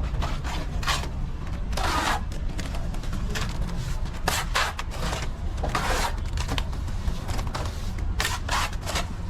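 Plastering trowel scraping and spreading plaster across a wall in short, irregular strokes, over a steady low hum.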